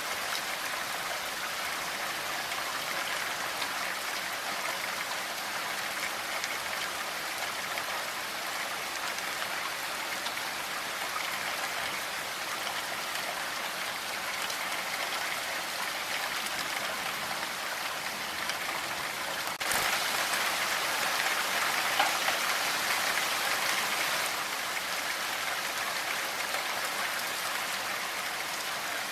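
Steady gentle rain falling as an even hiss of drops. About two-thirds of the way through it suddenly gets louder for about four seconds, then settles back.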